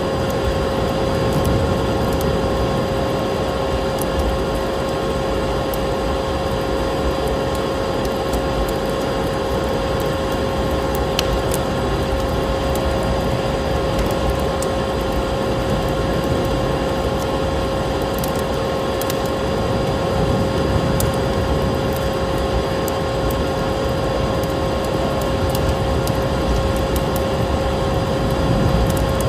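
Wood fire crackling in a fireplace, with scattered sharp pops, over steady low wind noise of a snowstorm and the constant motor hum of a vacuum cleaner.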